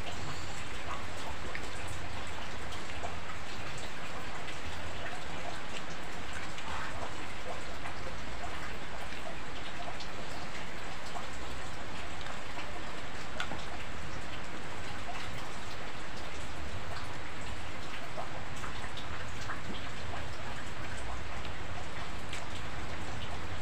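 Steady rain falling, with scattered ticks of single drops.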